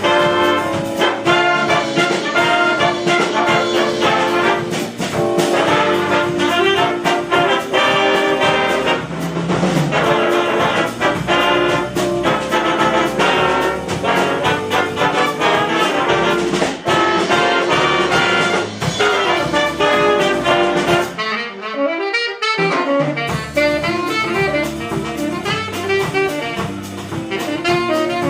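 Big band jazz played live: the trumpets, trombones and saxophones play ensemble figures over bass and drums. About three-quarters of the way in, the rhythm section stops for about two seconds while a single horn line plays alone, and then the full band comes back in.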